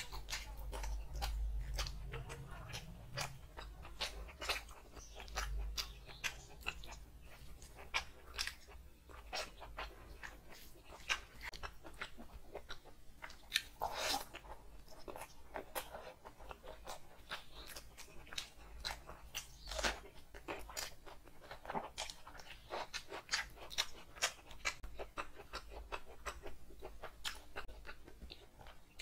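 Close-miked eating sounds: wet chewing, biting and lip smacking, with dense small clicks and a few louder crunches, as chicken in curry and rice are eaten.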